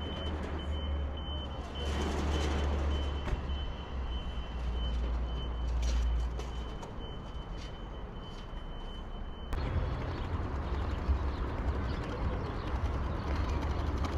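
City street ambience: a steady low rumble of traffic and outdoor noise, with a thin steady high-pitched tone that stops abruptly about nine and a half seconds in, where the sound changes at once.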